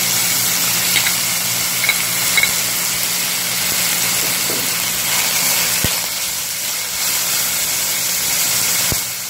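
Chicken and julienned ginger sizzling in a hot oiled wok as they are stir-fried, the slotted metal spatula clicking against the pan a few times. A steady low hum runs underneath.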